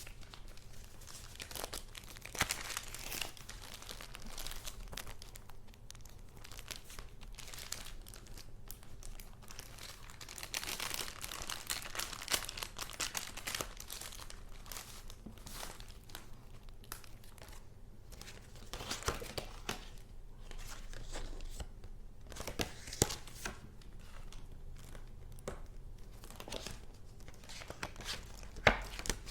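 Paper goods being handled: irregular bursts of rustling and crinkling paper, with a few sharp clicks, the loudest near the end.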